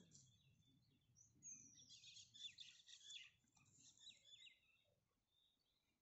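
Faint birdsong: a run of high chirps and twitters about a second and a half in, lasting about three seconds and opening with a short falling whistle.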